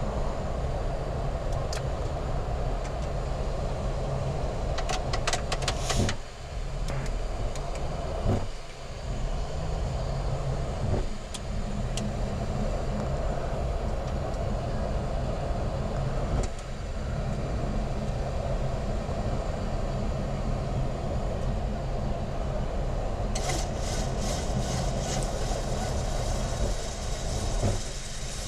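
Steady cockpit noise of a Boeing 737 MAX 8 taxiing after landing, its CFM LEAP-1B engines at idle. Bursts of rapid clicking come in about five seconds in and again near the end.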